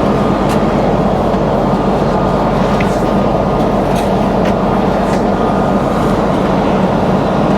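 Steady roar of a Boeing 777's passenger cabin in flight, the engine and airflow noise of the climb out, with a low hum under it and a few faint clicks.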